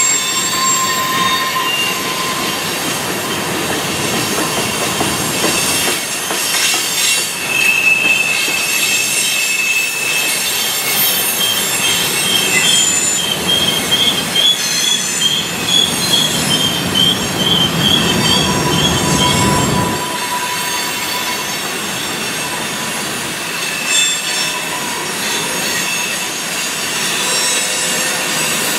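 Freight train rolling past with its wheels squealing on the rails in several shrill, wavering tones that come and go. Under it runs a low rumble with gusts of wind on the microphone, which stops abruptly about two-thirds of the way through.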